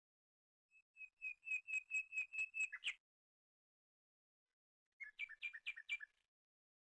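A songbird singing two rapid runs of clear, repeated whistled notes, about four to five a second: a longer run of about ten notes, then a shorter run of about five two-part notes some two seconds later.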